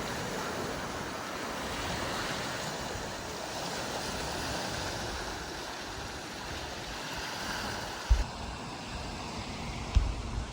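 Steady rushing of water and wind. The sound changes about eight seconds in, and two brief low thumps follow.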